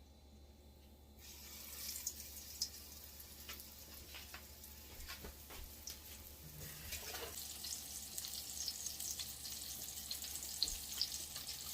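Panko-breaded stuffed chicken frying in a pan of oil: a sizzle with scattered pops and crackles that starts about a second in and slowly grows louder.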